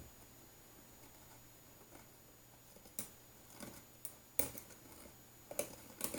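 A few scattered sharp clicks and light knocks, mostly in the second half, from hand-tool work on a wooden amp cabinet.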